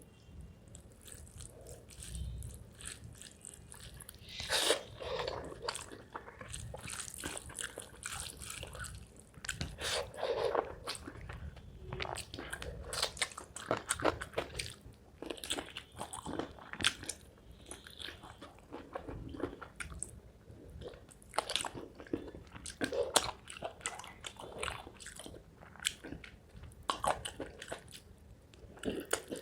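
A person eating spicy chicken curry with rice close to the microphone: irregular biting, chewing and crunching mouth sounds.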